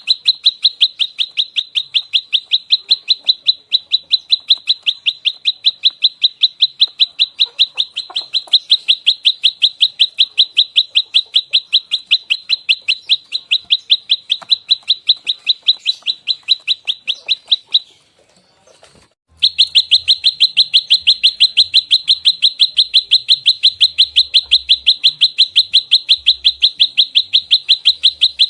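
Prenjak lumut singing its fighting call: rapid, evenly spaced sharp chirps, about seven a second. The chirps break off for a second or so after about 18 seconds, then resume at the same pace.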